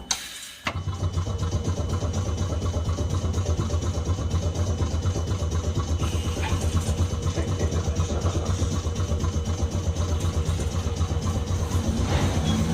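Nagasaki Electric Tramway 370-series tram's onboard machinery switching on with two sharp clicks, then running as a steady, loud low drone with a fast, even pulsing.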